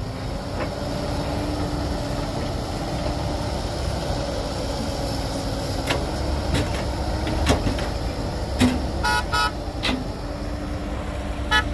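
Heavy construction-machinery diesel engine running steadily, with a few knocks from about six seconds in and short horn toots about nine seconds in and again near the end.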